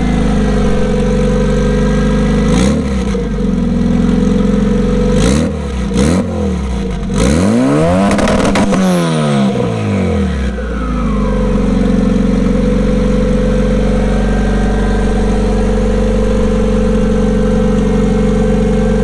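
Honda Civic EG's B16 four-cylinder VTEC engine idling with the hood open, blipped a few times in the first half. One longer rev rises and falls around eight seconds in, then the engine settles to a steady idle.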